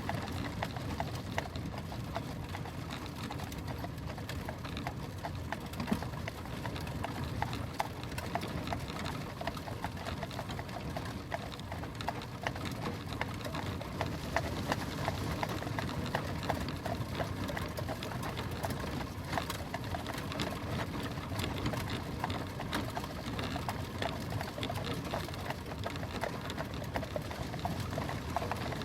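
Horse-drawn stagecoach with a team of four on the move: a continuous clatter of hooves and sharp knocks over a steady low rumble of the wheels, with harness jingling and the carriage creaking.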